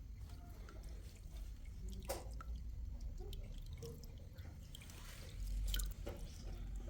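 Water dripping, with a couple of sharp knocks, one about two seconds in and one near six seconds.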